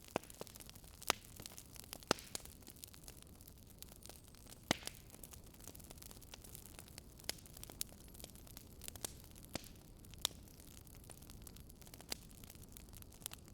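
Wood fire burning and crackling: irregular sharp pops and snaps, about ten of them louder than the rest, over a steady low rush.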